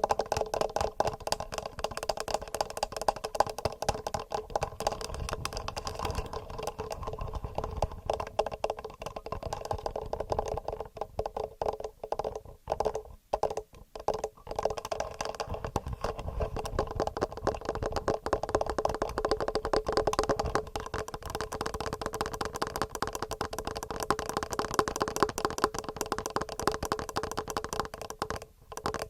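Fast, dense fingernail tapping on a TASCAM handheld recorder's microphones: rapid hard clicks with a hollow ringing tone from the recorder body. The tapping breaks off briefly a few times about halfway through.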